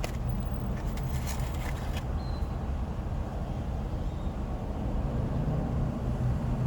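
Steady low rumble of a car interior with the engine running. A few short clicks and rustles fall in the first two seconds.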